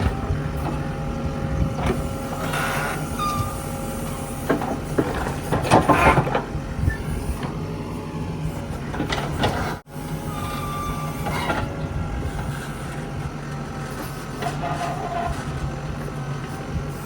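Mahindra backhoe loader's diesel engine running steadily under work, with metallic clanks and brief squeals from the bucket and arm a few times. The sound cuts out briefly near the middle.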